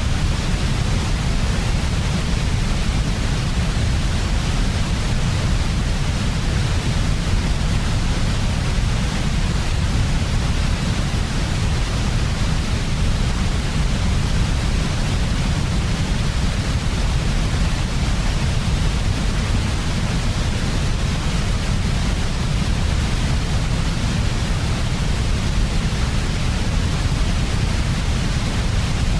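Steady white noise for baby sleep, unchanging throughout, with a strong low rumble under a fainter, even hiss.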